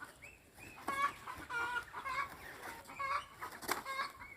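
Chickens clucking, many short calls overlapping from several birds, with a couple of sharp knocks.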